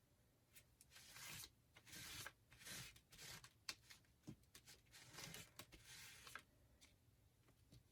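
Craft materials being handled: several short rustling, rubbing strokes, like paper or paper towel worked over a surface, with scattered light clicks and taps.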